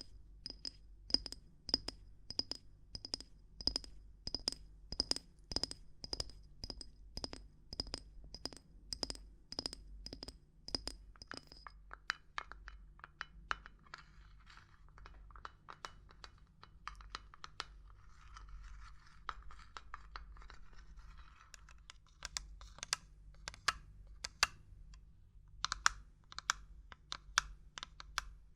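Fingers or a tool tapping on small hard objects. For about the first twelve seconds the taps come evenly, about two a second, each with a short high ringing note. After that the taps turn softer and irregular, mixed with scratching, and quick clusters of taps return near the end.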